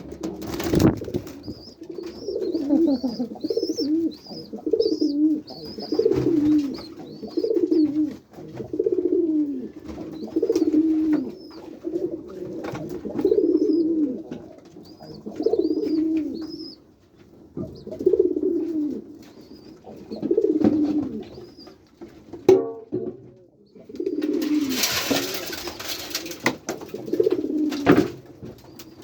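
White domestic pigeons cooing, low falling coos repeated about every one to two seconds, with faint high chirping above them. A brief burst of rustling noise comes about three-quarters of the way through.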